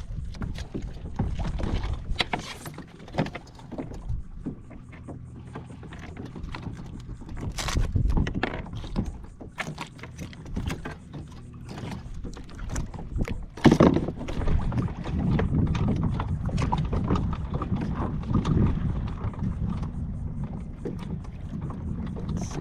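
Knocks and clatter of a fish and gear being handled on a fishing kayak, over a steady low rumble of water and wind. There is one loud knock about fourteen seconds in.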